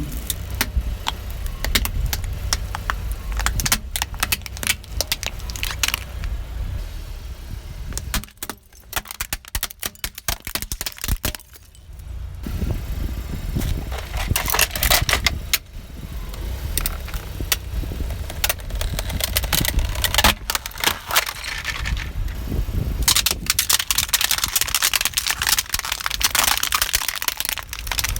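A car's tyre rolling over and crushing crunchy objects: a dense run of crackling, snapping and rattling over a low rumble from the car. The crackling thins out for a few seconds partway through, then comes back in louder clusters.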